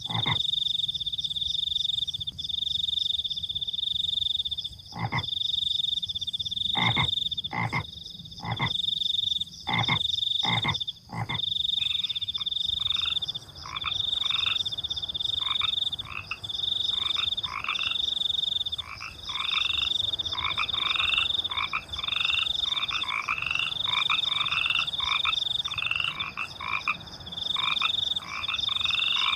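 Frogs croaking and crickets chirping. A high, pulsing cricket trill runs in long bursts with short gaps, with a few sharp clicks in the first half; from about twelve seconds in, frogs join with a fast series of short rising calls.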